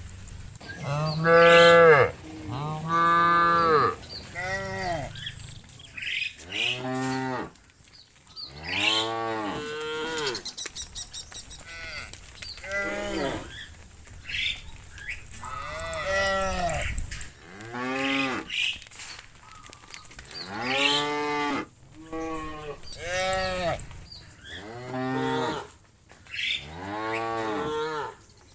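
Cattle mooing again and again, more than a dozen drawn-out calls that each rise and fall in pitch. The calls come at different pitches and sometimes overlap, from several animals.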